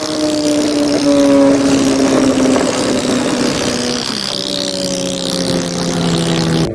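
Superbike engine running hard, its pitch sliding slowly down, then dropping to a lower note about four seconds in, with wind and road noise.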